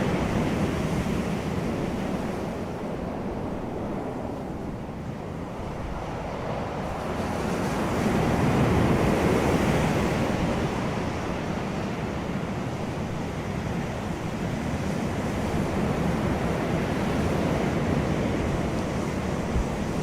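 Wind blowing, a steady rushing noise that swells about eight seconds in and then eases.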